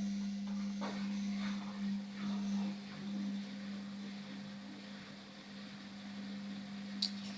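Indesit washing machine on its spin at 600 rpm, the motor giving a steady hum, with a few faint knocks and a sharp click about seven seconds in.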